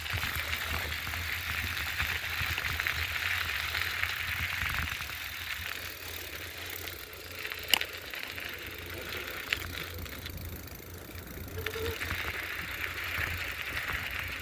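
Steady riding noise of an electric bike on a wet path, a mix of tyre hiss and wind on the microphone, easing off for a moment past the middle. Two sharp clicks or knocks come in the second half.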